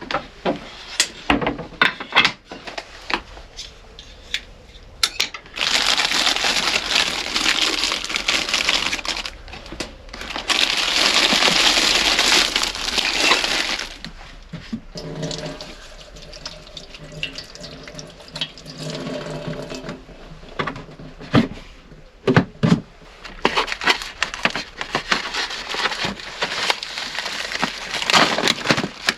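Water being poured in long hissing streams, twice, then again near the end, between sharp clicks and knocks of things being handled.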